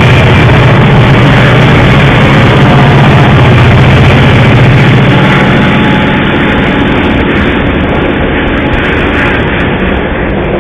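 Diesel locomotive passing, its engine a loud, low, steady drone over rumbling wheel and rail noise, easing a little after about five seconds.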